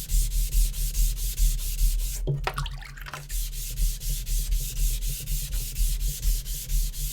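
Rust eraser scrubbed back and forth across a Naniwa Super Stone whetstone to clear the steel swarf loading its surface. It makes quick, even rubbing strokes, about five a second, with a brief pause a little over two seconds in.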